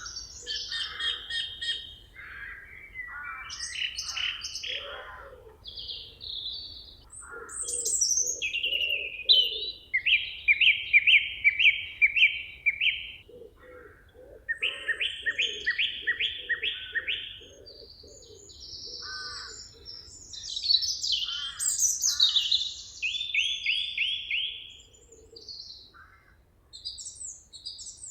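Several songbirds singing over one another: chirps, whistled phrases and repeated fast trills. Beneath them, in places, run series of lower repeated notes.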